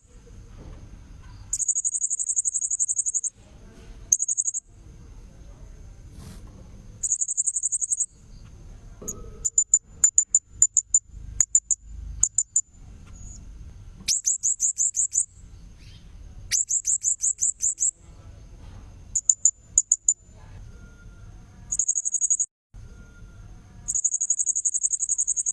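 Blue-crowned hanging parrot (serindit) calls played as a lure track: very high, thin, buzzy trills in bursts of a second or two, with quick runs of sharp chirps between them, over a faint low rumble.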